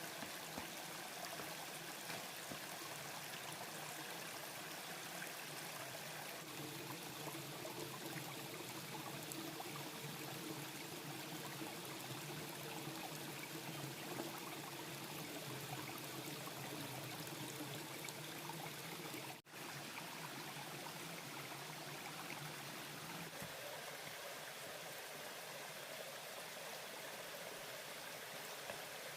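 A stream flowing steadily, with a brief dropout about two-thirds of the way through.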